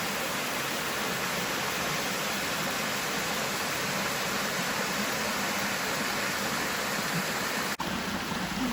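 Waterfall and small cascades of a mountain creek rushing steadily, with a brief dropout near the end.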